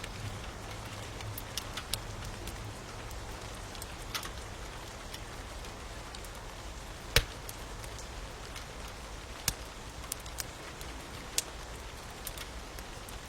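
Steady hiss of falling rain with a wood fire crackling over it in scattered sharp pops, one much louder pop about seven seconds in.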